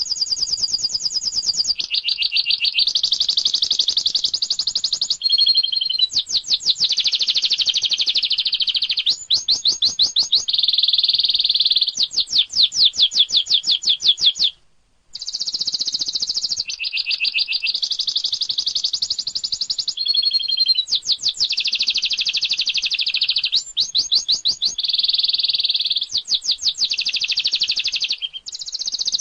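Domestic canary singing a long, continuous, high-pitched song of rapid trills and rolling phrases. The song breaks off briefly about halfway through, then goes on.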